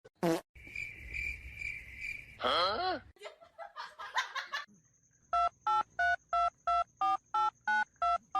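A rapid run of evenly spaced electronic beeps, about three a second, each a two-note telephone-dialing (touch-tone) tone like keys pressed on a phone keypad. A brief wavering pitched sound comes earlier.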